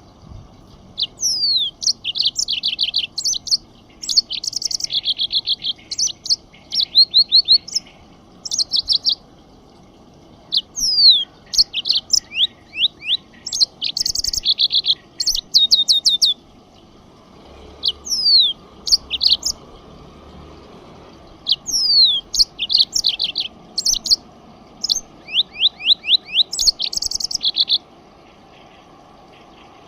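A songbird singing in bouts of quick descending whistled sweeps and rapid trills, with short pauses between phrases. The song stops a couple of seconds before the end.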